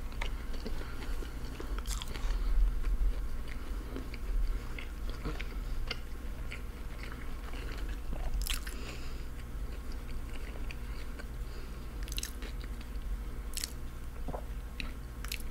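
Close-miked chewing of a soft fast-food sandwich: wet mouth sounds with scattered sharp clicks and smacks, over a low steady hum.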